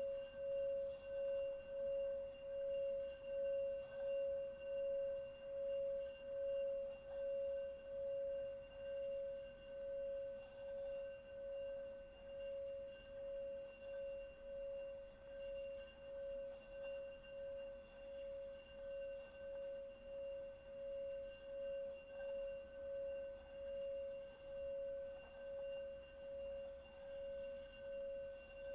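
Singing bowl sounding one continuous tone, with higher overtones, wavering in a steady pulse about one and a half times a second. It grows slightly softer about halfway through.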